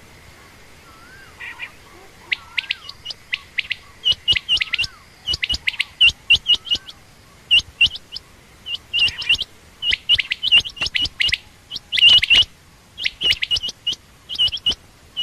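Quail calling: a rapid run of short, sharp high chirps in quick clusters of two to four, repeating over and over and starting about two seconds in.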